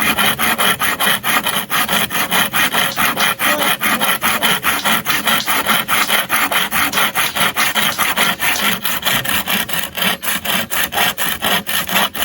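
Hand saw cutting through wood in quick, even back-and-forth strokes, about four or five a second, then cutting off suddenly.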